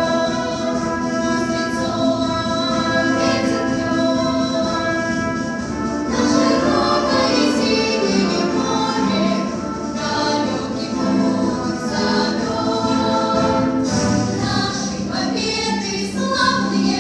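Children's choir singing a march with pop-ensemble accompaniment.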